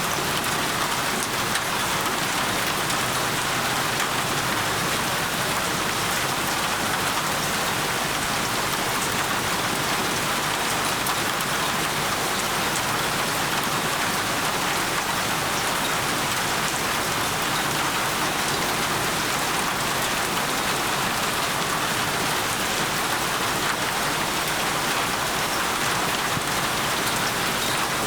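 Steady rainfall hissing evenly, with no breaks or distinct drops standing out.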